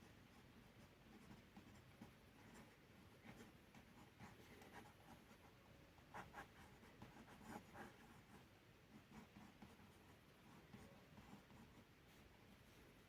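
Faint scratching of a drawing tool on paper as lines are sketched, in short irregular strokes that come most densely around the middle.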